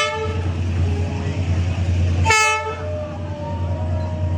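Train horn sounding short blasts, one right at the start and another a little over two seconds later, over a steady low rumble.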